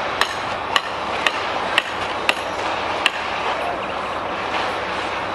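Six sharp hammer-like knocks about half a second apart, stopping about three seconds in, over a steady background of job-site noise.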